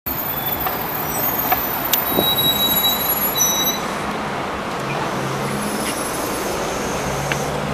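Scania OmniLink CL94UB city bus heard from inside the passenger cabin: the engine running under a steady wash of road and cabin noise. A thin high whine sounds through the first half, and a few small clicks and rattles come and go.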